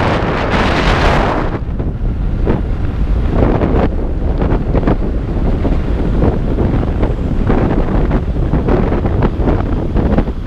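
Wind buffeting the microphone on a moving motorbike, a loud, steady low rumble. A brighter rushing hiss in the first second and a half then eases off.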